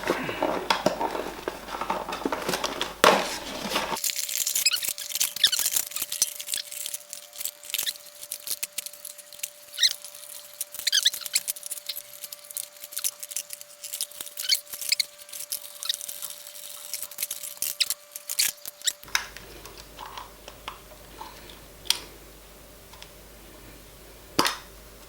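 GoPro camera parts and plastic packaging being handled: irregular clicks, taps and squeaky plastic rubbing. A faint steady tone runs underneath through the middle part.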